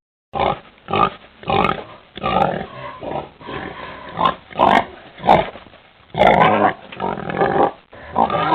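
Pig grunting and oinking in a rapid string of short calls, some louder and rougher than others.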